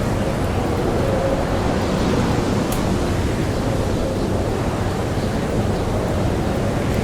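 Blizzard wind blowing steadily with a faint howl, with the light crackle of a campfire and one sharp pop about two and a half seconds in.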